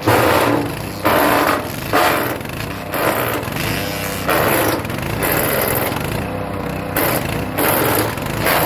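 Hecht 6208 wood chipper running under its engine, with repeated crunching bursts, about one a second, as birch branches are chipped.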